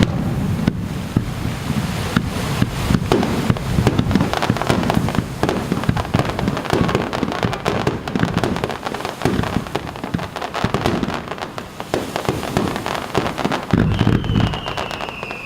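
Aerial fireworks over the sea bursting in quick succession: dense crackling with repeated low booms. Near the end a single whistle glides down in pitch.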